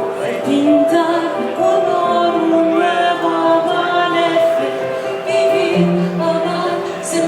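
Live performance of a pop song: a woman singing over held keyboard chords.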